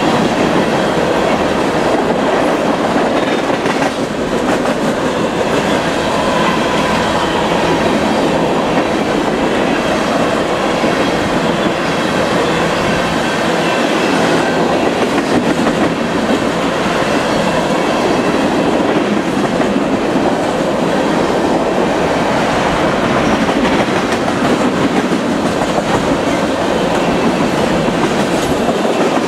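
Freight train of tank cars rolling past close by: a loud, steady running noise of steel wheels on the rails.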